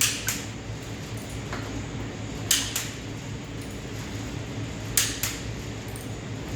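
Sharp metal-on-metal clicks from tools and engine parts being handled, in three pairs about two and a half seconds apart, over a steady low hum.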